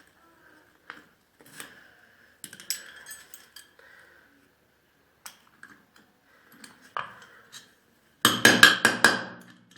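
Metal tools and small engine parts clinking and knocking during engine disassembly, with scattered single clicks, then a loud rattling clatter of metal for about a second and a half near the end.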